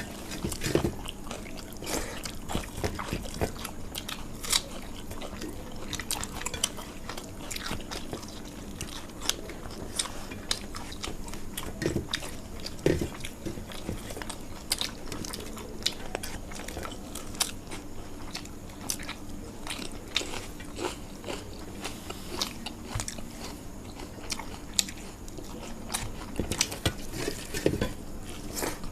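Close-up eating sounds: chewing and biting into crunchy fried food, with frequent sharp crunches. A faint steady low hum runs underneath.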